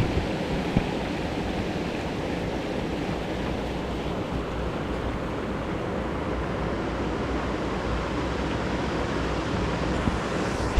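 Steady rushing noise of wind blowing over the microphone, with a single short click just under a second in.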